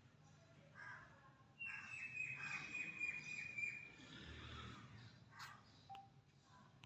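Faint bird chirping, with one steady high whistle-like call held for about two seconds, then a few short chirps.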